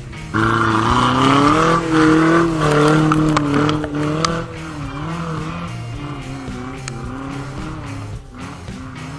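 Off-road 4x4 engine revving and labouring, its pitch rising and wavering, loudest in the first half and easing off after about four seconds. Background music plays underneath.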